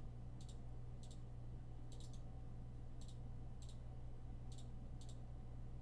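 Computer mouse clicking: short, sharp clicks, scattered irregularly about once or twice a second, over a steady low electrical hum.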